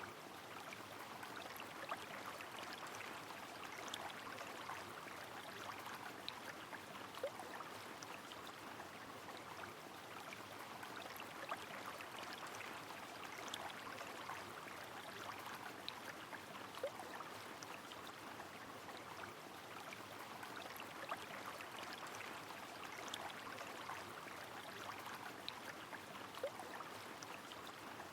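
Rain falling on a flowing river: a steady watery rush with scattered sharp drip-like ticks and now and then a slightly louder drop.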